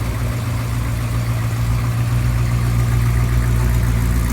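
A car engine idling steadily with an even, low rumble.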